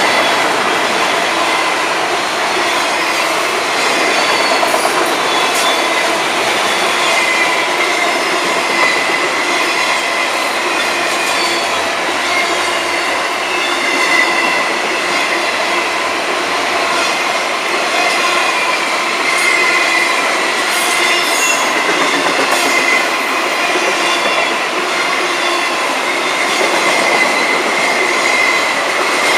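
Freight cars of a long Florida East Coast Railway train rolling past on the rails: a steady, loud rumble and clatter of wheels, with a high-pitched squeal from the wheels that wavers but never lets up.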